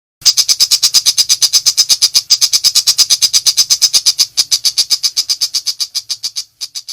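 Long-tailed shrike (pentet) giving a rapid, high-pitched rattle of evenly spaced notes, about ten a second, that starts suddenly and fades away near the end.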